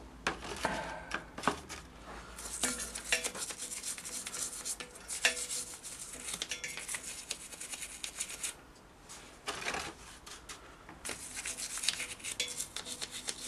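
Rubbing and scrubbing by hand on a motorcycle engine while it is being degreased, with many small clicks and knocks. It comes in bursts broken by short pauses, about two thirds of the way through.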